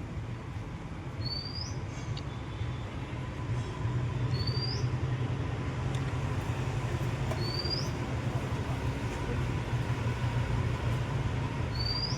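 Steady low engine hum, a little louder from about four seconds in, with a short rising chirp repeating about every two seconds.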